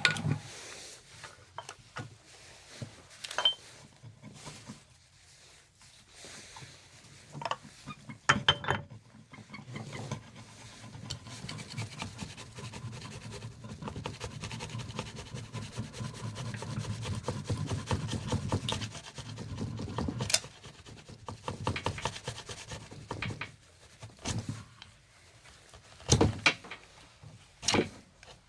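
Hand work on motorcycle engine parts: a long stretch of rubbing and scraping in the middle, with a few sharp metallic knocks and clinks before and after.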